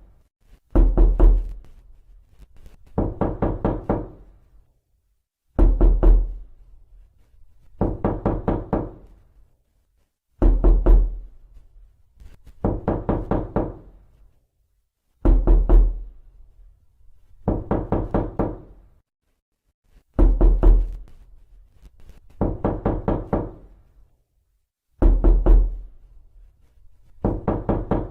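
Knocking on a door in quick bursts of about four to six knocks each, roughly one burst every two and a half seconds with a short silence between. Every other burst starts with a heavier, deeper thud.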